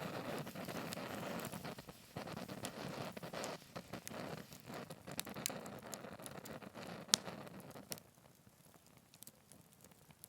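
Wood fire burning in a Picogrill 398 fire pit: a rushing of flame that dies down over the first several seconds, with scattered crackles and sharp pops, the loudest about seven seconds in.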